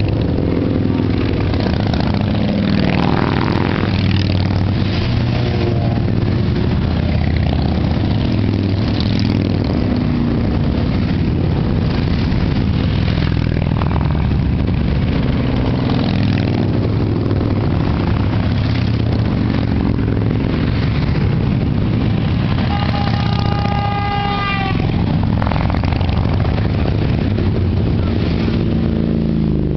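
Many motorcycle engines running together, a steady dense rumble with engines revving now and then. About 23 seconds in, a higher pitched tone sounds for about two seconds.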